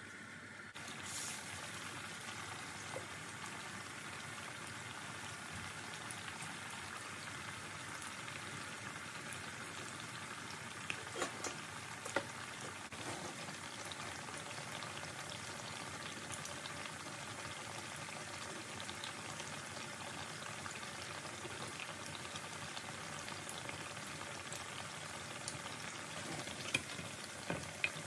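Mutton chapli kebab patties shallow-frying in hot oil: a steady sizzle that sets in sharply about a second in. A few light clicks come near the end as tongs touch the pan.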